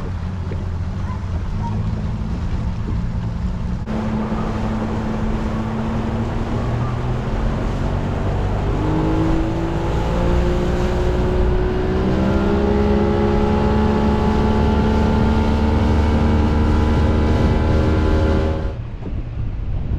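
Boat's outboard motor running, its pitch rising from about eight seconds in as the boat speeds up, then holding steady at speed over a low wind rumble. The sound cuts off suddenly near the end.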